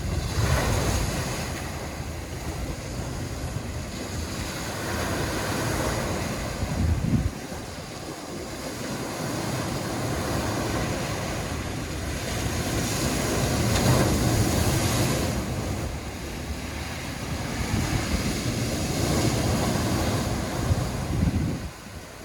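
Sea waves washing onto the shore in slow surges every few seconds, with a low wind rumble on the microphone.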